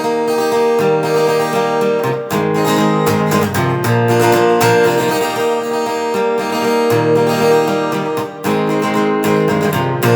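Acoustic guitar strummed in a steady rhythm, chords ringing with no voice.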